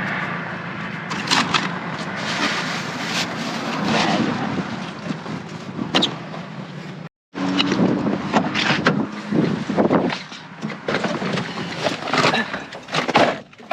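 Crinkling and clattering of packaged snacks and cardboard boxes being handled, over a steady low hum that fits an idling vehicle. The sound drops out abruptly for a moment a little past halfway, then resumes.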